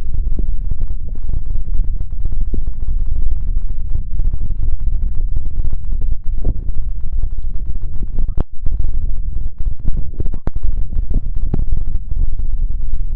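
Continuous close-microphone rubbing and scratching on an ASMR mic, loud and low, with a sharp click about eight and a half seconds in and another about ten and a half seconds in.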